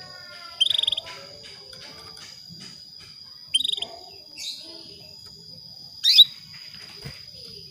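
Female canary giving short chirping calls in four brief bursts spread over several seconds, the last a quick rising sweep: the calling of a hen in breeding condition that lures a male to sing. A steady high-pitched tone runs underneath.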